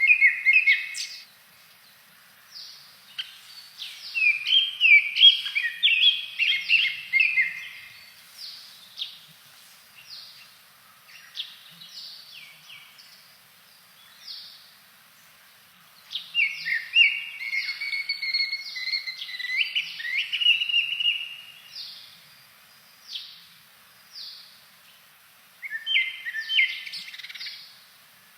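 Blue-and-white flycatcher singing: bouts of rapid, clear whistled notes, several seconds long, separated by pauses with only a few scattered notes.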